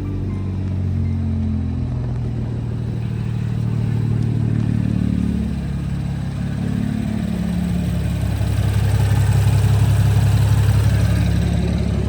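BMW N55 3.0-litre turbocharged inline-six running at idle, started with freshly changed oil and left to warm up.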